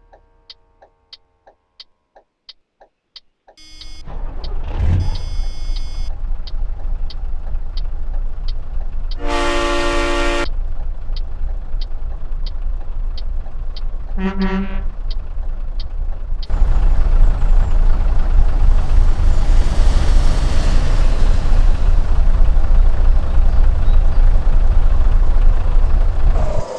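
Scania R-series V8 diesel truck: a steady ticking, then the engine starts and runs. The horn gives one long blast and a short toot, and the engine then runs louder, revved or pulling away.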